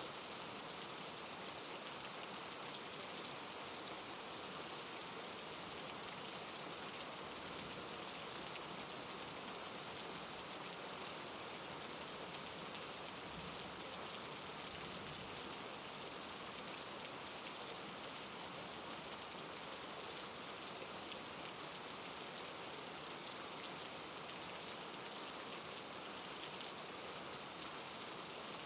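Steady soft rain falling, an even hiss of drops with fine patter on a surface.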